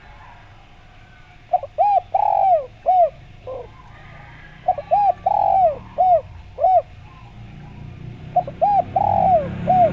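Spotted dove (tekukur) cooing: three repeated song phrases, about three seconds apart. Each phrase is a few short rising-and-falling coos with one longer drawn-out coo in the middle.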